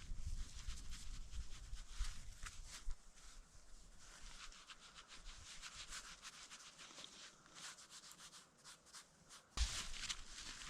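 Crunching and scraping on snow: a run of fine crackling rubs, with dull footfalls in the first few seconds and again near the end.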